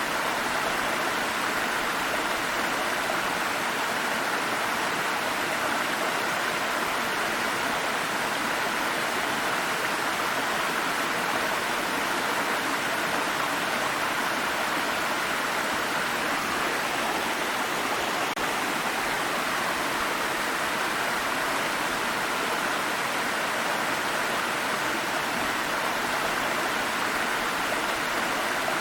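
A stream of water flowing and rushing steadily over rocks, a constant splashing hiss with no change.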